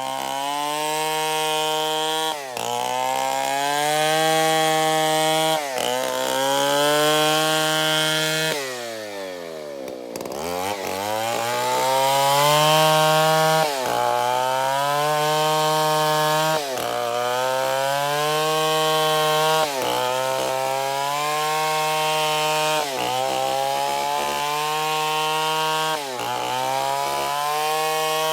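Stihl 070 two-stroke chainsaw running hard while cutting wood, its pitch sagging briefly and climbing back every few seconds. A little before the middle the engine falls off toward idle and then revs back up.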